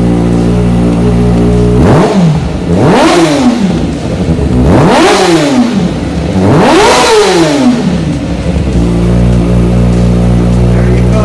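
2019 Kawasaki ZX6R inline-four idling through a Two Brothers S1R Black Series slip-on exhaust, then revved four times in quick succession between about two and eight and a half seconds in, each rev rising sharply and falling away, before it settles back to a steady idle.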